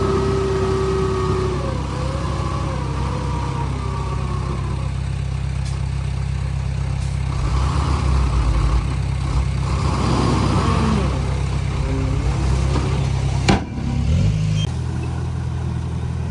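Komatsu D31P bulldozer's diesel engine running steadily at work, with wavering whining tones gliding up and down over it and one sharp knock about 13 seconds in.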